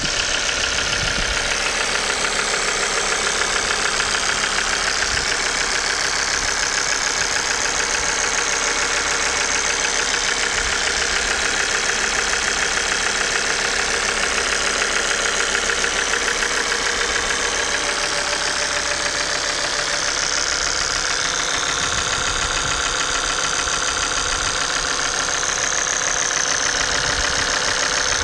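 Car engine running steadily with a rapid, continuous metallic clacking, the sign of oil starvation: the owner found the oil pump had failed.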